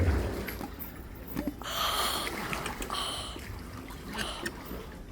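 Water sloshing and splashing around a wading elephant, with a couple of louder rushes about two and three seconds in.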